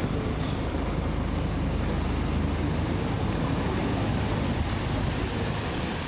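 Waterfall: a steady, loud rush of falling water with no letup.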